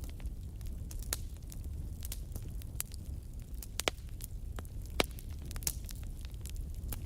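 Campfire burning with a low steady rumble and scattered sharp crackles and pops; the loudest pops come a little before the 4-second mark and again about a second later.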